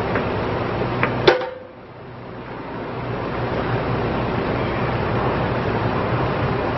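Diesel engine of a John Deere 27D mini excavator running steadily, with two sharp metallic clicks about a second in; the sound then drops away suddenly and swells back up to the same steady running over the next second or so.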